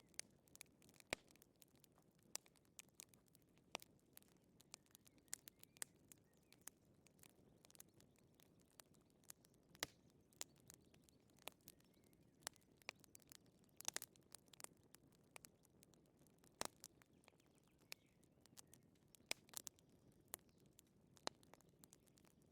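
Wood fire crackling in a fireplace: irregular sharp snaps and pops, a few a second, over a soft low rustle.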